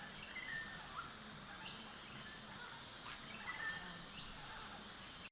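Faint outdoor nature ambience with a steady hiss and a few short bird chirps scattered through it, the clearest about three seconds in.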